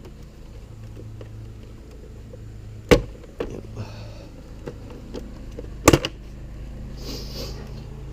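Two sharp plastic snaps about three seconds apart as a Honda Grom SP's body panel is pried loose and its clips pop free, over a steady low hum.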